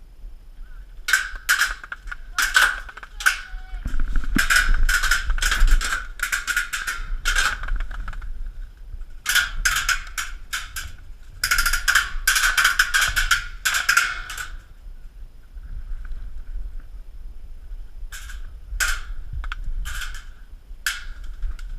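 Airsoft electric rifle firing on full auto in repeated bursts of rapid clacking over a motor whine, several long bursts with short breaks, then a pause and a few more bursts.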